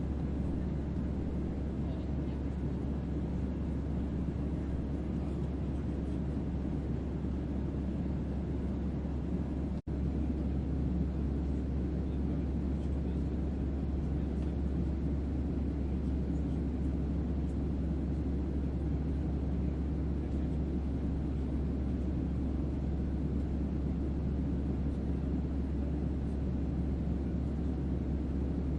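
Sci-fi starship interior ambience: a constant deep bass hum under a steady rushing white noise, like a vessel's onboard hum. The sound cuts out for a split second about ten seconds in, then carries on unchanged.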